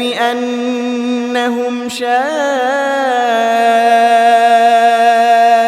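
A man chanting Quran recitation in the measured murattal style, with a wavering, ornamented turn and then a long steady held note on one drawn-out syllable.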